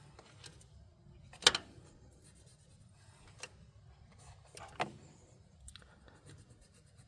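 Metal hand tools clicking and clanking against an engine's valve rockers during valve adjustment: a sharp clank about one and a half seconds in, another near five seconds, and a few light ticks between.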